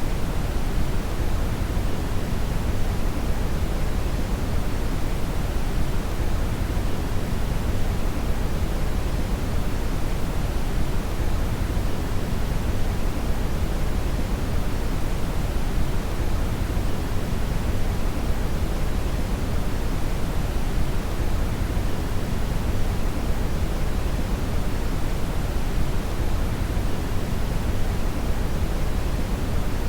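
Synthetic brown noise: a steady, deep rushing hiss weighted toward the bass, unchanging throughout.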